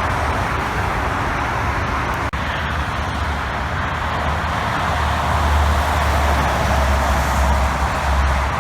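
Roadside traffic: steady tyre and engine noise from passing vehicles, with a low engine rumble that grows louder in the second half as a heavy vehicle goes by.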